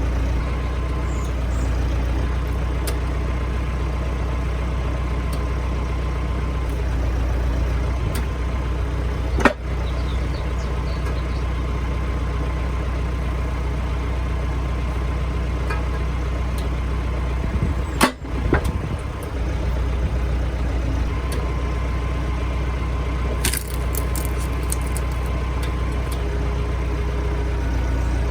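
Renault tractor engine running steadily while it drives a hydraulic log splitter. Sharp knocks come about a third of the way in and again, louder, about two thirds in.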